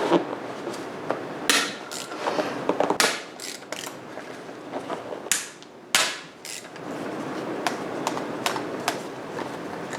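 Hand work on metal motorcycle engine casings during degreasing: irregular knocks and clinks, mixed with several short rushing, scraping strokes.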